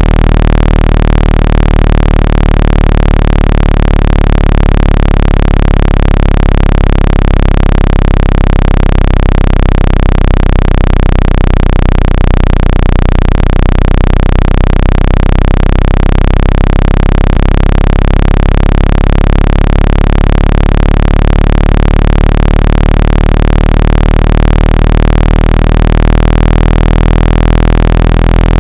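Loud, low, buzzy electronic tone played to shake water and dust out of a phone speaker. It holds steady, its pitch drifting slowly and turning back about halfway through.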